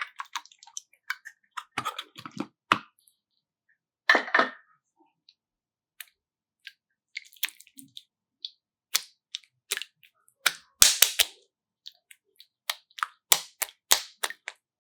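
Irregular sharp clicks and crackles with short silent gaps, denser bursts of crackling about four seconds in and again around eleven seconds.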